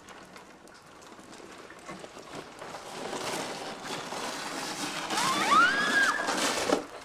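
A sled sliding over snow, a hiss that grows louder as it comes closer, with a short high squeal of a voice that rises and falls near the end.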